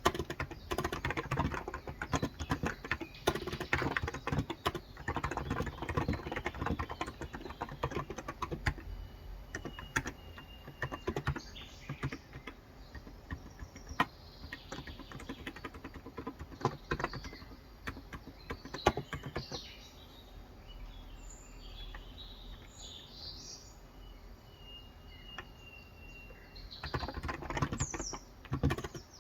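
Typing on a Cox Endeavour tenkeyless keyboard with 35 g electro-capacitive (contactless) switches: a fast, dense run of keystrokes for the first several seconds, then only scattered key presses. Birds chirp and whistle in the background in the latter half. The typing picks up again near the end.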